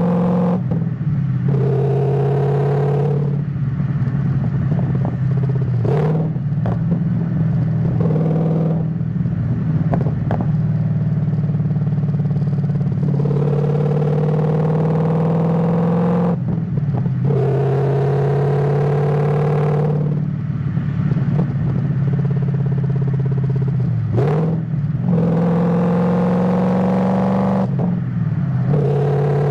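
Ford Mustang GT S197's V8 engine pulling through the gears of its manual gearbox. The pitch climbs slowly and drops back at each of several gear changes, with a few sharp clicks in between.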